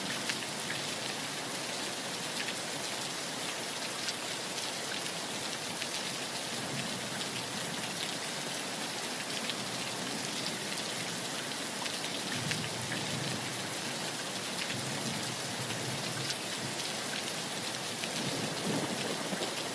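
Heavy rain falling steadily: a constant hiss of rain with many separate drop hits ticking through it.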